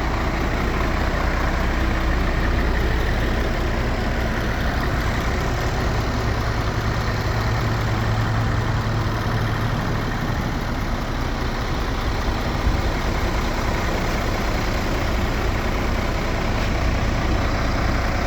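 Scania R450's 13-litre inline-six diesel engine idling steadily, a deep even hum.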